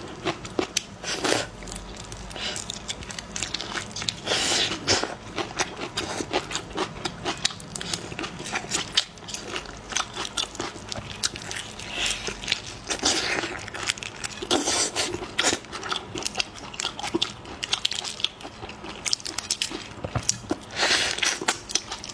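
A person eating seafood close to the microphone: steady chewing and mouth clicks, with a louder bite every few seconds.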